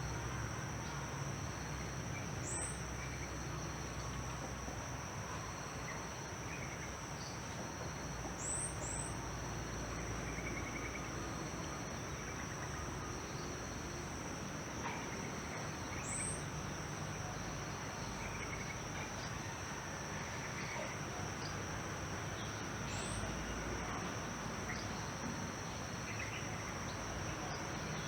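Outdoor ambience of insects giving a steady, high-pitched drone, with a few short, high bird chirps now and then.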